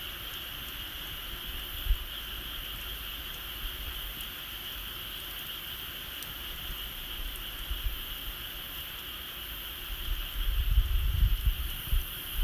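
A steady, high-pitched outdoor chorus of small calling animals, with a faint click about two seconds in. Low rumbling buffets come in over the last two seconds.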